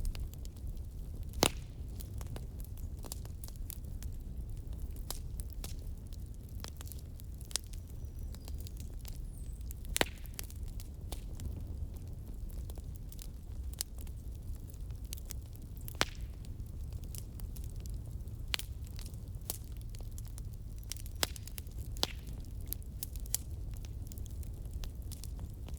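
Wood fire of burning firewood logs crackling, with a steady low rumble and irregular sharp pops, the loudest about a second and a half in and about ten seconds in.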